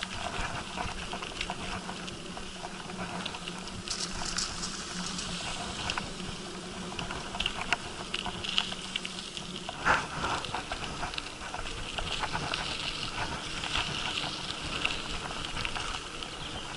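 Bicycle rattling and clicking over broken asphalt, many irregular small ticks over a steady rushing noise, with a sharper knock about ten seconds in.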